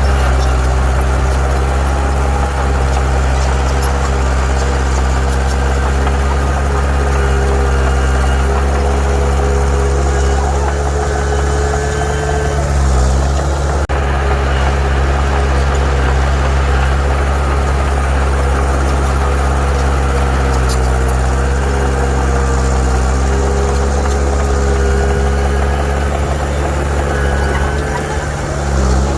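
Heavy diesel earthmoving engine running steadily. Its pitch dips briefly about halfway through and again near the end.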